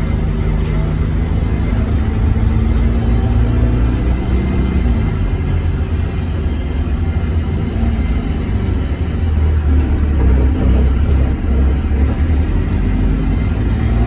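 Scania K230UB bus's diesel engine running under way with a deep rumble; its engine note fades about four seconds in and picks up again near the end.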